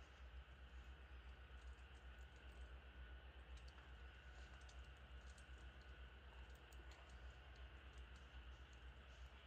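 Faint, irregular crackles from a campfire over a low steady hum, near silence.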